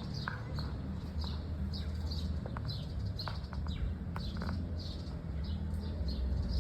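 A small bird chirping over and over, short high downward chirps about twice a second, over a steady low rumble.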